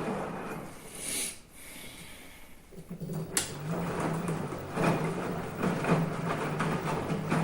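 Washing machine running, then winding down to a brief pause; a sharp click about three seconds in, and the motor starts again with a hum and rhythmic churning of the drum, as in the stop-and-reverse of a wash cycle.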